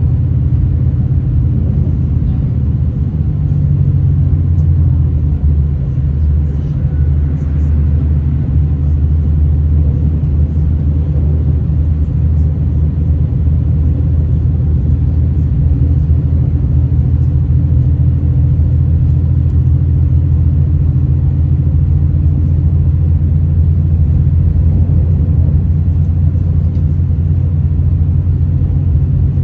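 Steady low rumble of a V/Line VLocity diesel multiple unit running at speed, heard from inside the carriage: engine drone and wheels on the rails, with a few faint ticks.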